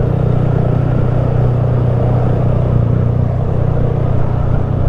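Honda Grom's small single-cylinder four-stroke engine running at a steady cruising speed while riding: an even, unchanging low drone.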